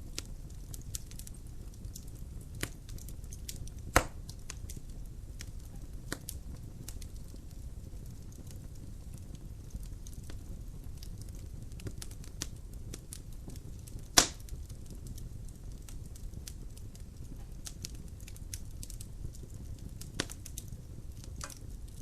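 Wood fire burning in a fireplace: a steady low rumble of flames with constant small crackles, and two loud sharp pops from the logs, about four seconds in and again about fourteen seconds in.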